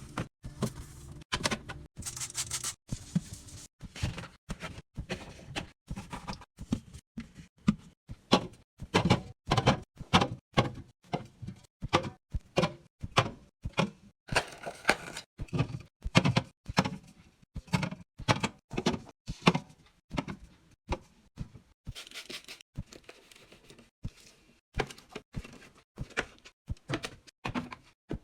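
Groceries and containers being set down and slid into a fridge: a long run of irregular knocks, taps and thunks, with a couple of short rustling stretches.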